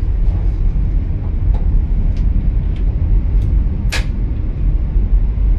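Steady low rumble of a high-speed train running, heard inside the train's washroom, with a few light clicks and one sharper click about four seconds in.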